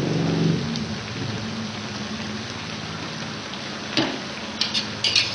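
Pork tongue, onions and bell pepper sizzling in a wok, a steady hiss. One sharp metal knock about four seconds in and a few light clinks near the end.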